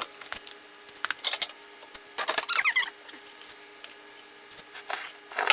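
Handling noises in a workshop: scattered clicks, knocks and scrapes, with a brief squeak about two and a half seconds in, over a faint steady hum.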